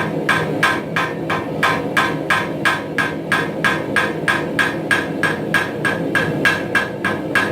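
Blacksmith's hammer forging steel on a post anvil in a steady rhythm of about three blows a second, each blow with a bright metallic ring, over a steady low hum.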